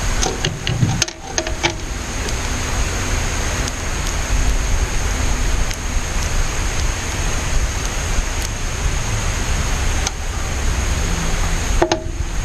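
Steady rushing wind noise buffeting the microphone, with a few short clicks in the first two seconds and again near the end.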